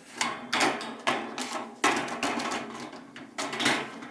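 A run of sharp plastic knocks and rattles, about seven of them at uneven spacing, as the parts of a compact Bosch dishwasher are handled and moved into place.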